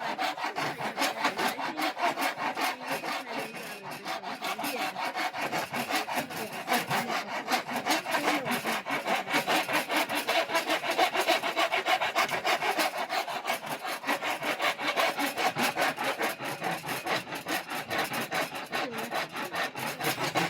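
A hand tool cutting into the wood of an oak board-bow limb in quick, even back-and-forth strokes, about four a second, as the limb is tapered.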